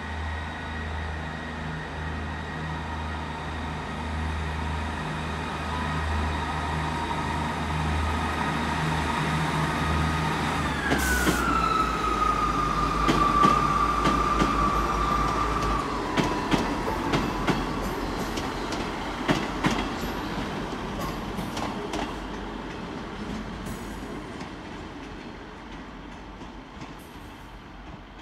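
Class 158 diesel multiple unit on the move with its diesel engine running. About eleven seconds in, a metallic squeal falls in pitch and then holds for several seconds. Wheels click over rail joints as the sound fades toward the end.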